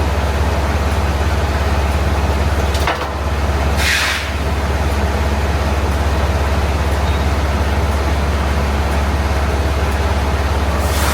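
Semi-truck's diesel engine running, a steady low drone heard from inside the cab. A short hiss of air comes about four seconds in and again near the end.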